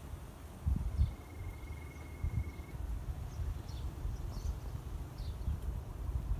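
Outdoor waterside ambience: a single steady, high trill lasting under two seconds, a few short high chirps, and a low rumble with a couple of dull thumps near the start.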